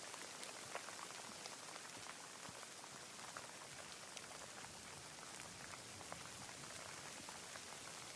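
Steady rainfall, a constant hiss of rain with many separate raindrops ticking close by at irregular moments.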